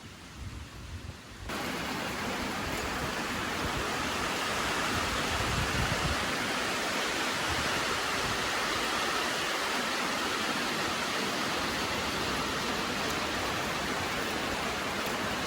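Heavy rain falling: a steady, even hiss that comes in suddenly about a second and a half in after a quieter stretch.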